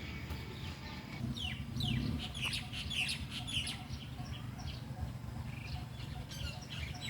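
Small birds chirping, many short falling chirps that come thickest about a second and a half in and again near the end, over a steady low rumble.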